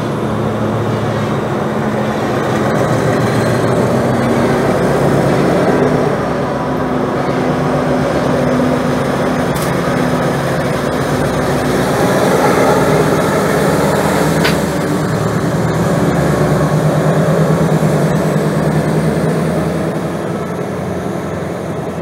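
Diesel train running, heard from a carriage window: a steady engine drone with the rumble of the wheels on the rails. Two sharp clicks come in the middle.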